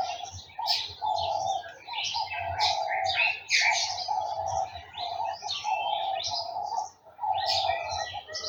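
Garden birds chirping and twittering in a busy, overlapping chorus, with a lower note repeated over and over beneath the chirps and pausing briefly near the end.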